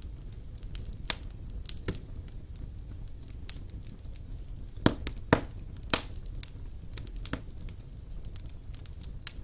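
Wood fire burning in a fireplace: irregular sharp crackles and pops over a low, steady rumble, with the loudest pops a little after halfway.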